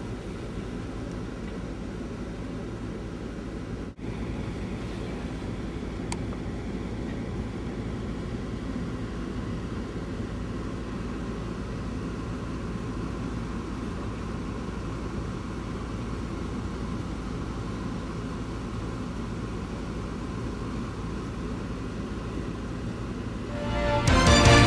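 A four-wheel-drive vehicle driving, its engine and road noise a steady low hum, with a brief break about four seconds in.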